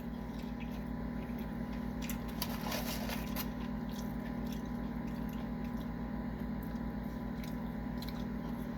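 A person chewing and biting into onion rings dipped in barbecue sauce, with a few soft clicks and rustles about two to three seconds in. A steady low hum runs underneath.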